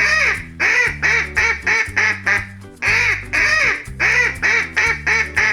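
Duck quacking, many short quacks in quick runs, over light background music.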